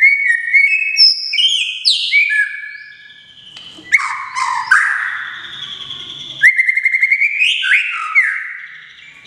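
Caged songbird singing loudly, a varied song of clear whistled notes, slurred glides and trills, with a rapid run of repeated notes about six and a half seconds in.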